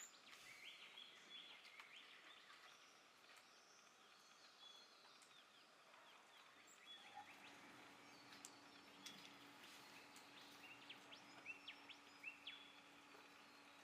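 Faint bird calls: many short, quick chirps and rising notes, scattered throughout.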